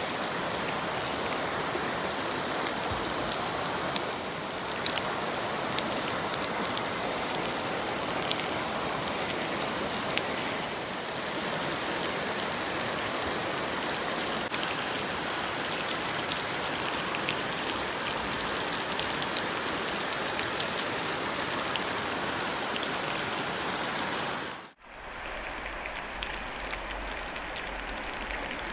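Chicken wings sizzling in butter and olive oil in a frying pan: a steady spitting sizzle with scattered small pops. It cuts off abruptly near the end, leaving a quieter, duller background.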